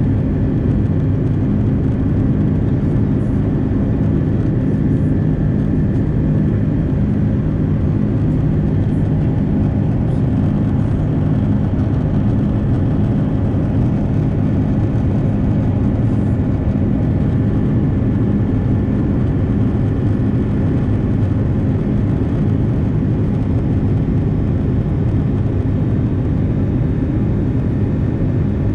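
Airbus A330-300 jet engines running steadily: an even, loud drone with a low hum that does not change.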